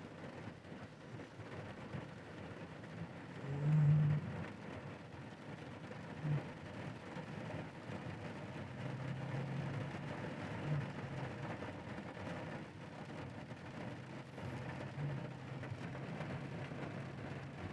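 Rainstorm: rain falling with a steady hiss. Beneath it is a low rumble that swells loudly about four seconds in and briefly a few more times after.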